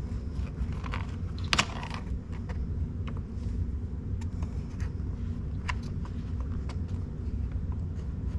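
Plastic trim housing around a car's parking brake handle being pried and worked loose: scattered plastic clicks and scrapes, the loudest about one and a half seconds in, over a steady low hum.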